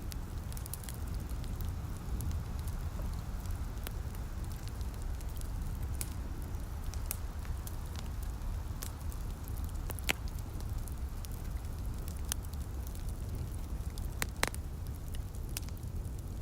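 Wood fire crackling, with irregular sharp pops (two louder ones about ten and fourteen seconds in) over a steady low rumble, mixed with light rain.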